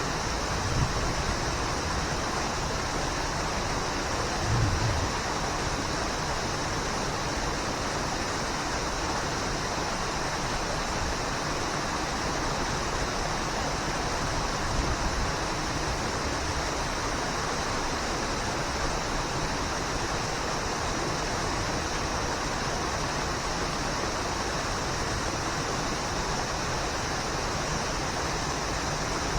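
Waterfall: a steady, unbroken rush of falling water. Two brief low thumps come about one second and four and a half seconds in.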